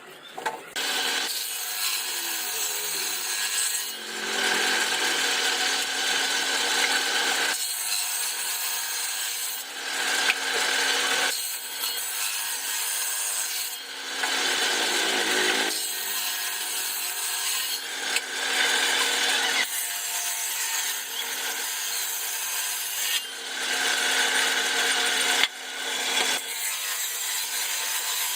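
A power tool working wood in about nine passes of two to four seconds each. Under the hiss of the cut, the motor holds a steady hum, with short breaks between passes.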